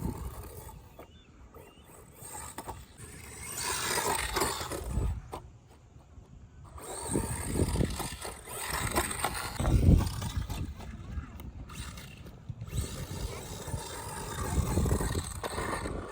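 MEW4 M161 1/16-scale brushless RC truck being driven: its motor whines up and down with the throttle in several surges, mixed with tyre and chassis noise over the ground.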